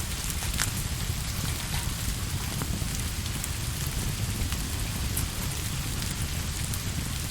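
Steady rain falling, with a deep rumble underneath and scattered sharp ticks.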